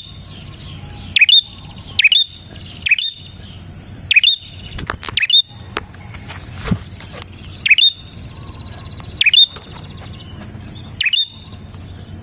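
Prinia (prenjak) calling: short, sharp, loud chirps repeated roughly once a second, with a quick flurry of notes near the middle, over a steady high-pitched background hiss.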